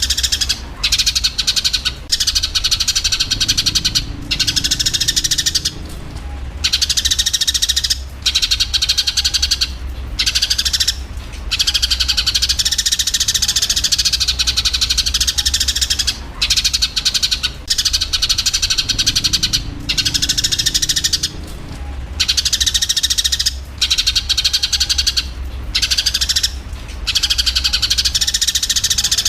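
Eurasian tree sparrows' fighting chatter: dense, rapid chirping with short breaks every second or two, over a steady low hum.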